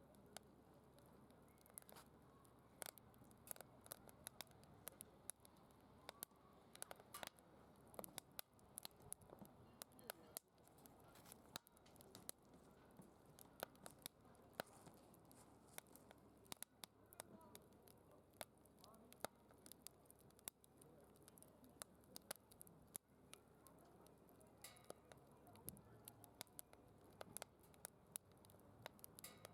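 Faint crackling of wood burning in a secondary-combustion fire pit: many small, sharp pops and ticks at irregular intervals over a low hiss.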